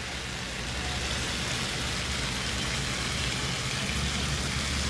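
Curry chicken and potatoes sizzling steadily in a skillet while they are bunjaled: fried down in their spices until the liquid cooks off, before the rice goes in. A low steady hum runs under the sizzle.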